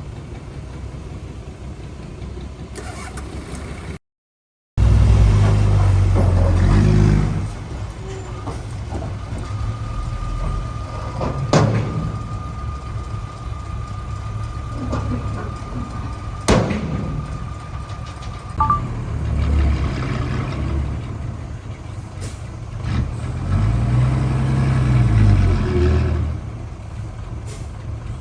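Heavy-machinery diesel engines rumbling and revving up and down, after a brief dropout about four seconds in. A steady high-pitched whine runs through the middle, broken by two sharp knocks.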